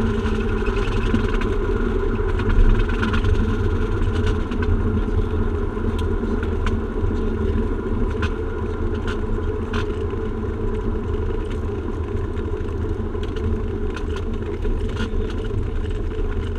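Aircraft engine and cabin noise: a steady rumble with a few faint steady tones above it, and scattered faint clicks and rattles.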